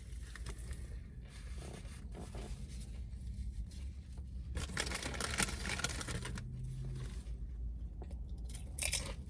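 Paper sandwich wrapper crinkling and tearing as it is handled, loudest in a burst about five seconds in and again briefly near the end.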